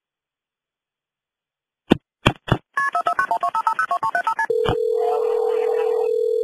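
Telephone line: a few clicks, then a rapid run of touch-tone (DTMF) dialing beeps, about a dozen a second, followed by one steady tone of about two seconds, with faint voices under it.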